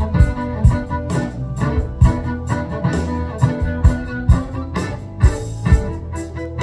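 Live band playing an instrumental passage: a drum kit keeps a steady beat of about two hits a second under sustained guitar and keyboard chords.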